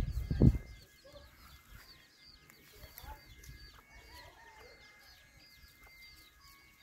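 Farmyard ambience: small birds chirping over and over, with faint chicken clucking in the background. A loud low rumble of wind or handling on the microphone comes in the first half-second.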